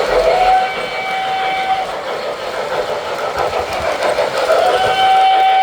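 Model steam train running on the layout, its steady rolling and chuffing noise carrying on throughout, with the locomotive's sound-system steam whistle blown twice: a blast near the start and a longer one near the end.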